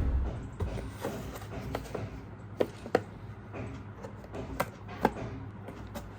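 Scattered light clicks and taps from a remote-control toy car being handled, over a low steady hum.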